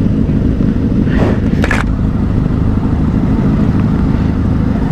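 Benelli motorcycle engine running steadily while riding, with a heavy low rumble of wind on the microphone and a brief hiss about a second in.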